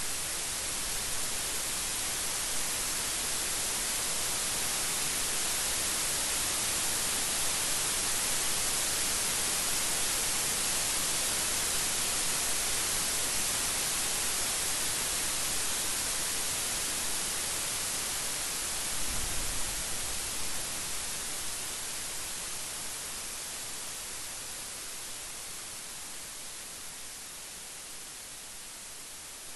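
Steady rain falling as an even hiss, easing and growing quieter over the last third, with a brief low rumble about two-thirds of the way in.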